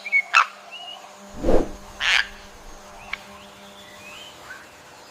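Toucan calling: a few short, harsh calls in the first three seconds, with faint high chirps of other birds in the forest background.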